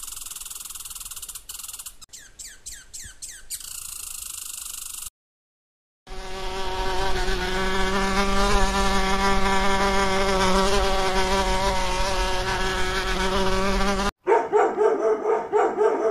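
Honeybee buzzing at a flower, a steady multi-pitched hum lasting about eight seconds through the middle. Before it there is a hiss with a run of quick falling chirps, and near the end puppies give short, pulsing high cries.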